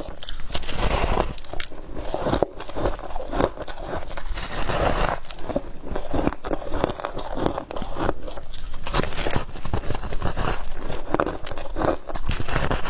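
A person biting and chewing frost close up: a dense, continuous run of crisp crunching and crackling.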